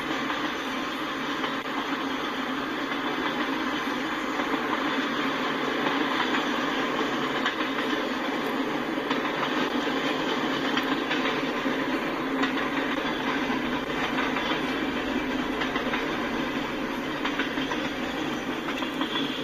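Freight train tank cars and covered hopper cars rolling past at a grade crossing: a steady noise of steel wheels running on the rails.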